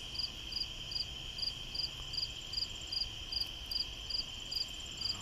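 Insects calling: a steady, high trill under a higher chirp that repeats evenly about twice a second.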